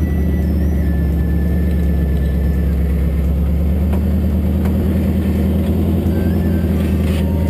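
Engine of a Jeep-bodied off-road trial buggy running steadily, without any rise or fall in pitch, as the buggy crawls slowly over a dirt mound. A couple of faint clicks come about halfway through.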